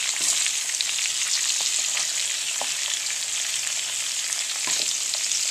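Anaheim peppers and chopped garlic frying in hot olive oil in a pan: a steady sizzle with fine crackling.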